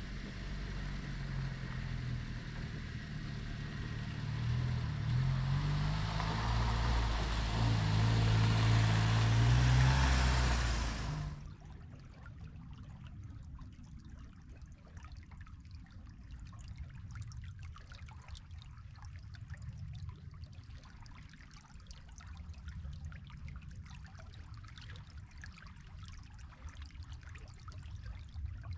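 A motor vehicle's engine running and growing louder, with its pitch shifting, then cutting off suddenly about eleven seconds in. After that comes the faint, steady trickle of a slow river.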